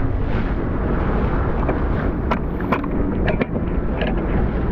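Wind buffeting the microphone as a steady low rumble, with a few short sharp clicks or slaps between about two and four seconds in.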